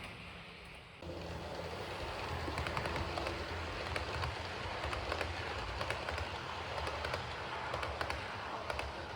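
Model train, a model E656 electric locomotive hauling coaches, running along the layout track: a steady rattling rumble with irregular clicks of wheels over rail joints, growing louder about a second in.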